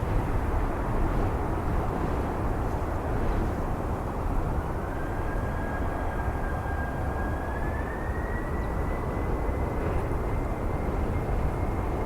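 Jet airliner engines running, a steady deep rumble with a thin high whine that climbs in pitch around four seconds in and again around eight seconds in, as thrust builds for takeoff.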